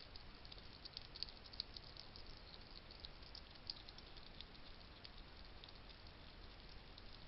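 A wild hedgehog crunching dry food: faint, irregular little clicks and crunches over a low steady hiss, with a few sharper ticks in the first half.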